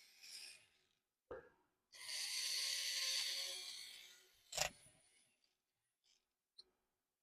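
A long, airy puff of breath close to the microphone lasting about two seconds, with a small knock just before it and another just after it.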